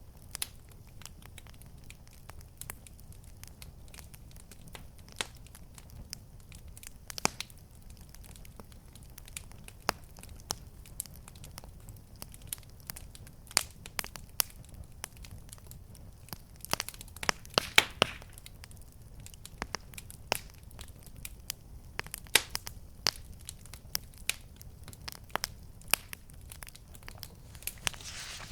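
Wood fire crackling in a fireplace: irregular sharp pops and snaps over a low steady rumble, with a burst of louder pops about two thirds of the way in.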